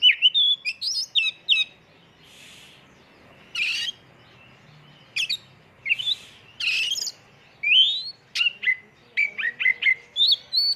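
Oriental magpie-robin (kacer) singing a varied fill-in song. Rapid strings of short high whistles and upward-sweeping notes are broken by a few harsh rasping calls in the middle, and the quick notes come thick again near the end.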